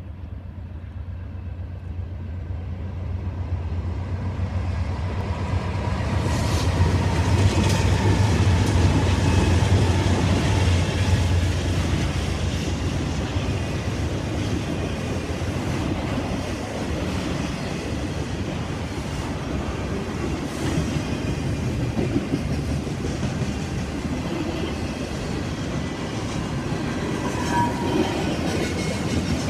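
Diesel locomotives of a BNSF intermodal freight train pass with a low engine drone that builds to its loudest in the first third. Then the steady rumble and clatter of double-stack container well cars rolling by takes over.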